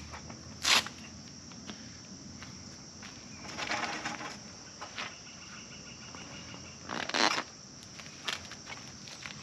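Several short rustles and knocks from handling parts during assembly work: a brief one early on, a longer rustling about four seconds in, and the loudest about seven seconds in, with a few small clicks between. A steady high insect drone runs underneath.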